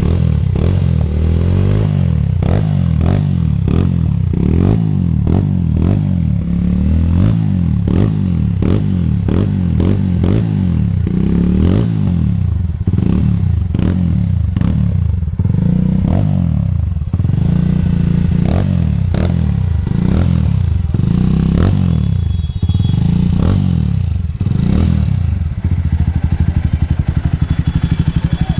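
Single-cylinder Jawa-Yezdi motorcycle with a Razor aftermarket exhaust, revved again and again in quick throttle blips over a deep idle, then settling to a steady idle near the end.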